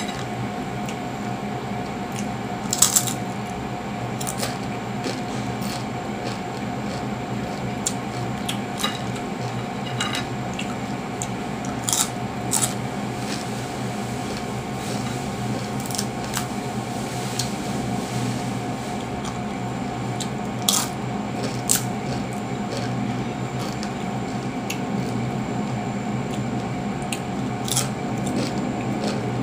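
Sharp crunches and crackles of a crispy fried ukoy fritter being broken by hand and chewed close to the microphone, a few every several seconds, over a steady hum.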